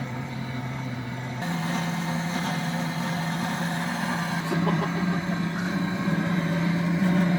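A motor running steadily with a hum that steps up in pitch and gets louder about a second and a half in.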